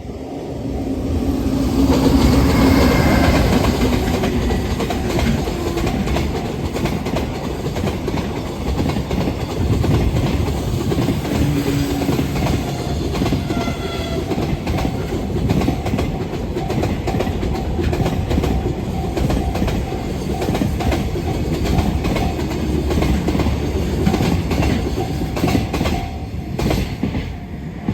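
Container freight train passing at speed: a loud approach that peaks about two to three seconds in, then a long, steady run of wagons with wheels clattering over the rail joints.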